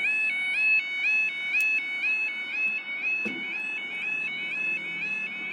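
UK level crossing warning alarm sounding: a two-tone yodel alarm alternating rapidly between a lower and a higher tone, steady and continuous, as the crossing closes to road traffic. A faint click about one and a half seconds in and a short knock about halfway through.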